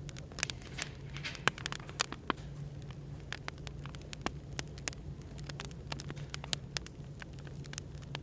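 Wood fire crackling, with irregular sharp pops and snaps over a steady low hum of café background noise.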